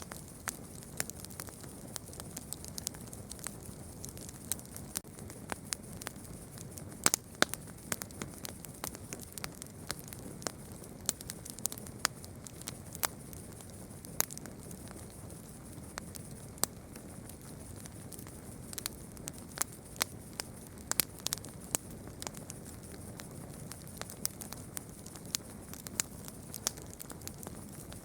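Campfire crackling, with irregular sharp pops and snaps of burning wood over a low steady rush of the flames.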